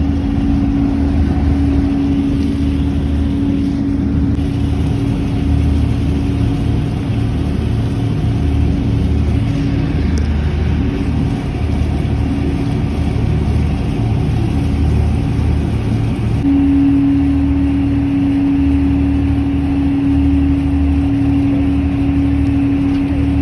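River tour boat's engine running with a steady drone and a deep, uneven rumble underneath; the hum becomes more prominent about two-thirds of the way through.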